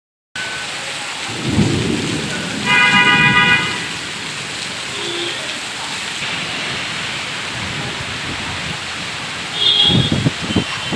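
Heavy rain falling steadily, with low rumbles near the start and again near the end. A loud horn sounds once for about a second, about three seconds in.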